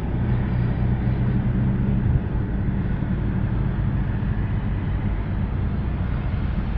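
Steady low rumble of a car running, heard from inside the cabin, with a low hum that shifts lower about two seconds in.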